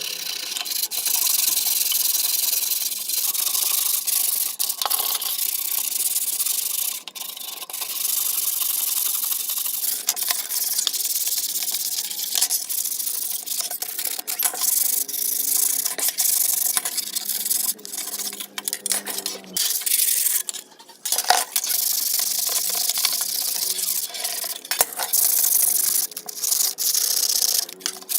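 Sanding by hand: a steady scratchy rub, broken by brief pauses.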